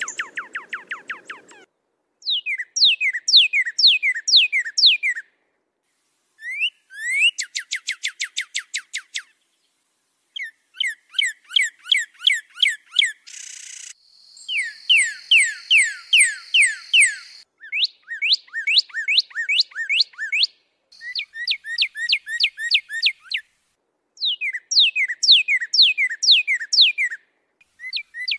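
Songbird singing in phrases of rapidly repeated, clear downslurred whistles. Each phrase holds about five to nine notes, and the phrases are separated by abrupt silent gaps typical of an edited song-tutor recording. A steady high whistle sounds under one phrase in the middle.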